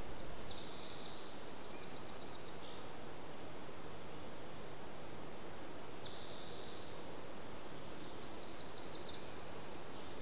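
Small birds calling over a steady outdoor hiss: a drawn-out high call about half a second in, another about six seconds in, and a quick high trill of rapid notes a little after eight seconds.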